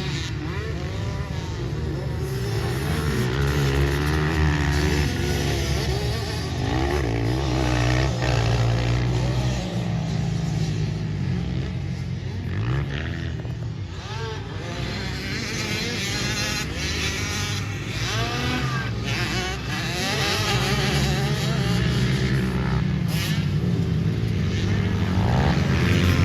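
Pit bike engines racing, revving up and falling back over and over in a motocross moto.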